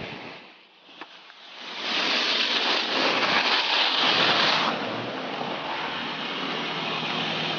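Steady rushing noise that swells about two seconds in and eases a little near the middle, with a low steady hum underneath, typical of a vehicle running at a traffic stop.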